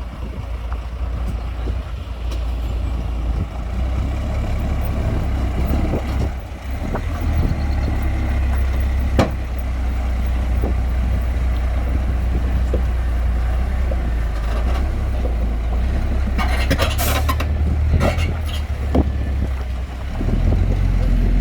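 Heavy diesel engine of construction machinery running with a steady deep drone. A few sharp clicks and knocks sound over it, and a cluster of sharp, hissing noise comes about three quarters of the way through.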